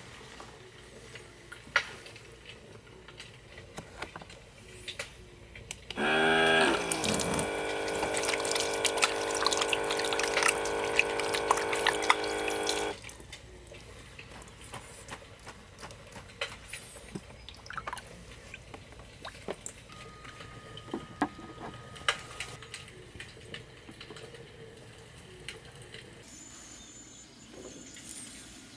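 Water running or pouring into a container for about seven seconds, starting about six seconds in and stopping suddenly. Small scattered clicks and knocks come before and after.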